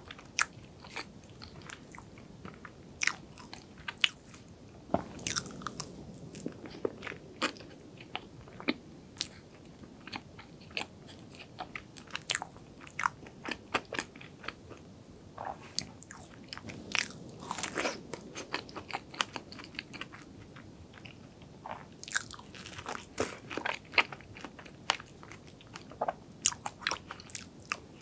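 Close-miked chewing of chocolate cream-cheese layer cake: many small, irregular clicks and mouth noises as the mouthfuls are worked.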